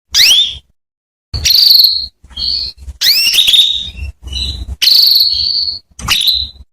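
Female canary calling: a run of about seven short, high chirping calls with brief silent gaps between, several sweeping up in pitch and a few drawn out into a short trill.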